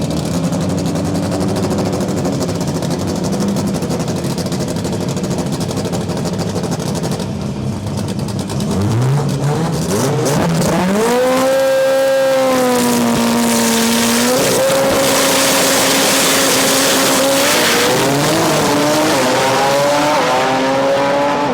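Drag car with a Honda S2000 four-cylinder engine, running steadily at first. About nine seconds in the revs climb steeply and hold high, the pitch stepping at gear changes and climbing again near the end.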